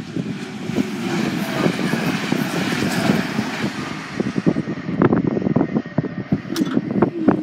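Train running over the level crossing, a loud rumble with repeated wheel knocks on the rail joints that eases off after a few seconds. A steady hum starts near the end.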